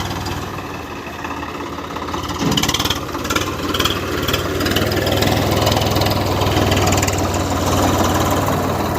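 Swaraj 4WD tractor's diesel engine running steadily, getting louder from about two and a half seconds in and holding the louder note, with a few knocks and clanks in the seconds after the rise.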